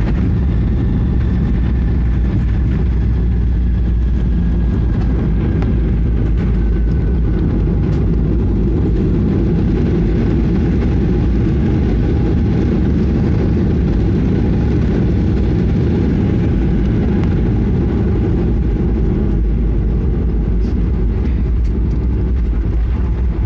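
Jet airliner landing: a loud, steady low rumble of engines and airframe, with a faint whine falling slowly in pitch over the first ten seconds or so.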